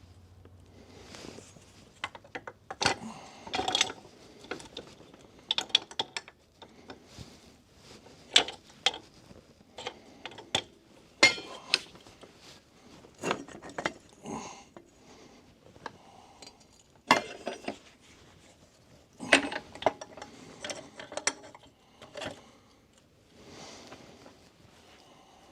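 Metal cab-latch parts being handled and worked by hand: irregular clicks, clinks and short scrapes, with a few louder clanks.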